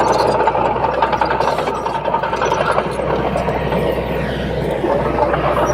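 Heavy diesel engine of earth-moving machinery running steadily with a low hum.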